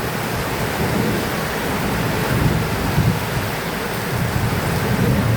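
Heavy rain falling steadily, with a low rumble underneath that swells and fades.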